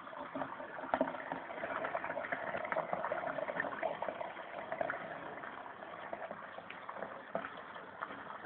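Washing machine taking in water at the start of a pre-wash: a steady splashing and gurgling rush of water into the drum, with small clicks.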